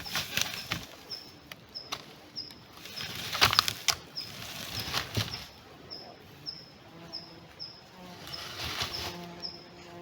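A small bird repeats a short, high, slightly falling note about every two-thirds of a second. Under it are bursts of rustling and crunching, the loudest about three and a half seconds in.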